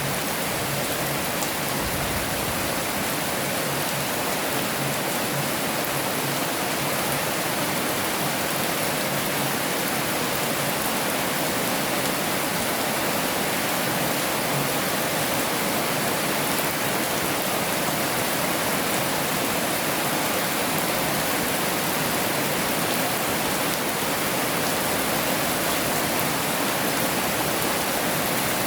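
Heavy rain falling, a steady, even hiss with no breaks or thunder.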